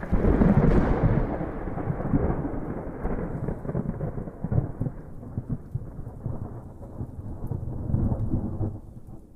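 A long, low, muffled roll of thunder that breaks suddenly at the start, then ebbs and swells again several times before dying away near the end, with rain under it.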